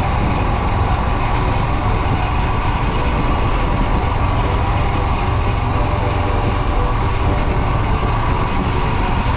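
Royal Enfield Himalayan 411's single-cylinder engine running steadily while riding, with road and wind noise, under background music.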